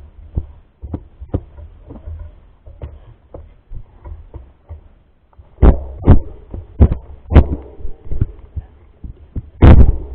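Irregular knocks and thumps over a low rumble, as from a camera mounted on a mountain bike riding over rough dirt trail, growing heavier about halfway through.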